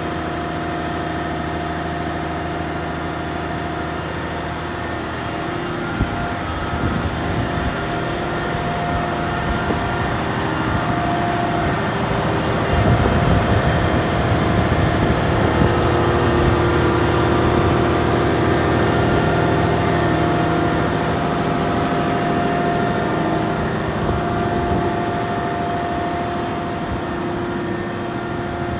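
Caterpillar 740B haul truck's C15 diesel engine running, steady at first, then louder and rougher from about six seconds in, loudest a little past the middle. A single sharp knock about six seconds in.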